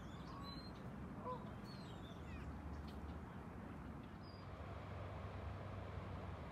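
Several kinds of birds calling: a few short, low calls in the first second and a half, with scattered high chirps through the first half and once more later, over a steady low hum.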